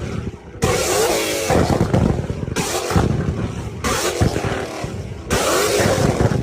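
Sports car engines revving hard, several climbs in pitch, each one starting abruptly.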